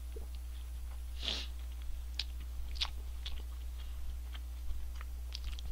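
A person chewing food close to the microphone, with scattered small crunches and mouth clicks, and one louder noisy sound about a second in. A steady low electrical hum runs underneath.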